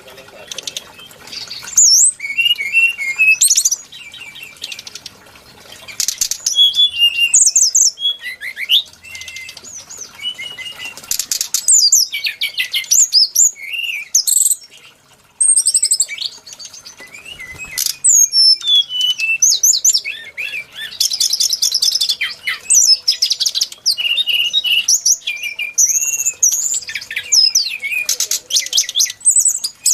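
Brown-chested jungle flycatcher singing: a rapid, varied run of chirps, whistles and fast trills, in phrases of a second or two with short gaps between them.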